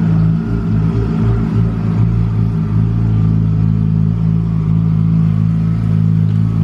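Porsche 911 GT2's twin-turbo flat-six running loud at a steady low engine speed, a deep even drone with no revving.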